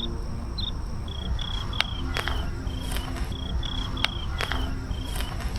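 A cricket chirping: short high chirps at one pitch, repeated about twice a second, with a few sharp clicks and a low rumble beneath.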